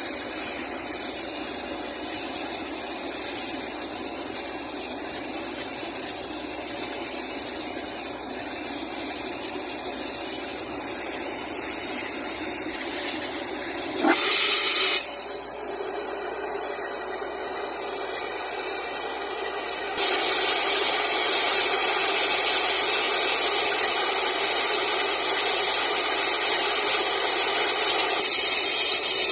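Compressed air from a compressor blowing through a bore well during flushing: a steady hissing rush. There is a brief louder burst about halfway through, and the rush grows louder for the last third.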